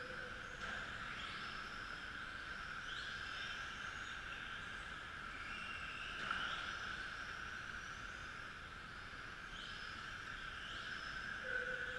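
Several electric radio-control model trucks racing, their motors and gears whining steadily, with repeated rising whines as cars accelerate, roughly every second or two.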